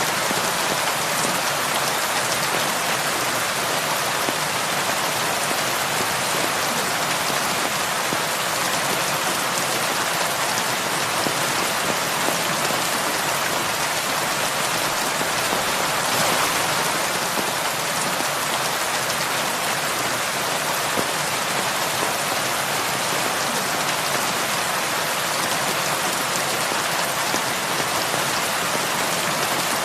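Heavy rain falling steadily on a roof, an even hiss of many drops.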